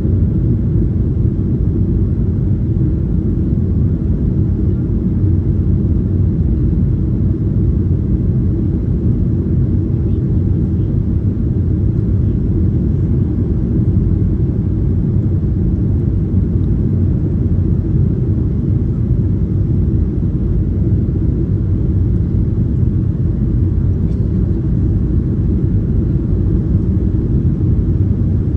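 Steady low rumble inside the cabin of a Boeing 737-800 airliner: engine and airflow noise with no change in pitch or level.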